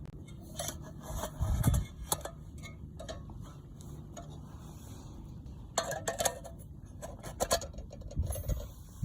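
Irregular light clicks, clinks and knocks in short bursts, from hands handling a small metal camp stove (a mini rocket stove) and its fuel, over a steady low hum.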